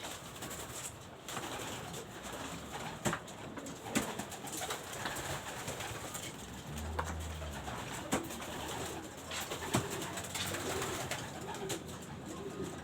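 Domestic pigeons cooing in an enclosed space, with scattered sharp clicks and knocks among them.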